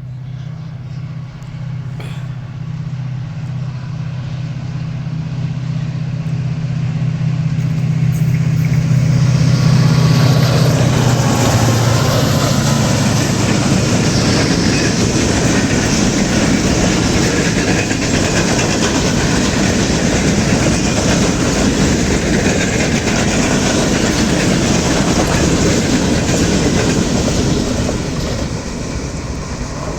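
Diesel-hauled passenger express passing at high speed, its wheels clattering over the rail joints. A steady low hum comes first, then the rushing rattle of the passing coaches builds from about eight seconds in and stays loud until it eases off near the end.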